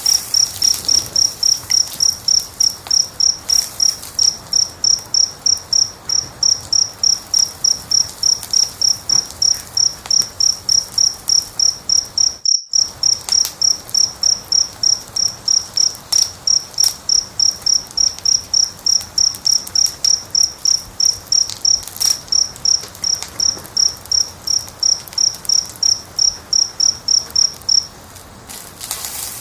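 Cricket chirping loudly and evenly, about two and a half chirps a second, over faint crackling and hiss from a fire. The chirping stops near the end, and all sound cuts out for an instant about twelve seconds in.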